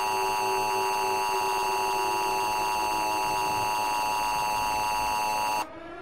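Emergency Alert System attention signal: a loud, steady, harsh alert tone that cuts off abruptly about five and a half seconds in.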